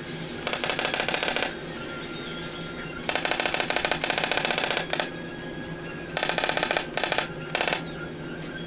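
A tool rattling in five bursts of very fast sharp knocks, the longest nearly two seconds, over a steady background hum.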